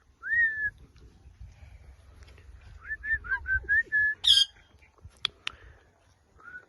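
Pet ringneck parrot whistling: one rising whistle, then a quick run of short whistled notes, followed about four seconds in by a loud harsh screech and two sharp chirps.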